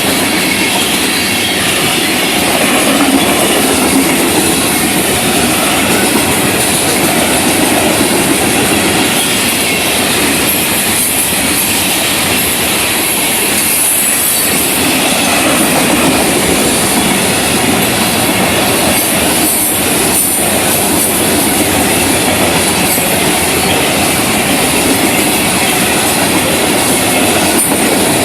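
Florida East Coast Railway freight train's cars rolling past at speed: a steady rumble and clatter of steel wheels on rail, with a high wheel squeal over it.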